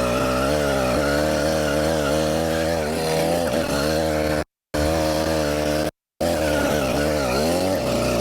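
Small 80cc two-stroke bicycle engine running hard, its pitch rising and falling as the throttle is worked. The sound cuts out completely twice for a split second past the middle.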